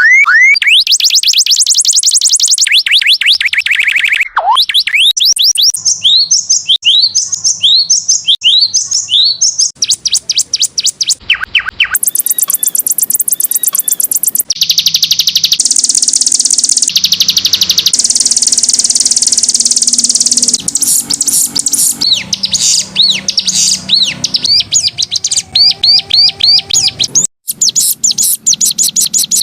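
Songbird song from a canary tutor (masteran) recording: an unbroken chain of fast repeated trills, downward-sweeping whistled notes and buzzy rattles, with a short break near the end.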